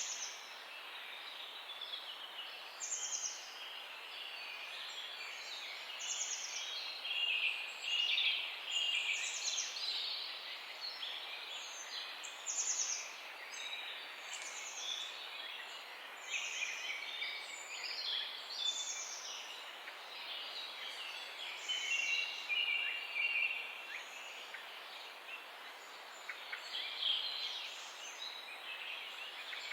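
Many small songbirds chirping and trilling at once, overlapping high calls that go on without a break.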